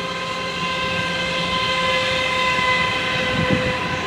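DART light rail train, a two-car set, giving a steady high whine with several pitches together over a low rumble, holding one pitch throughout.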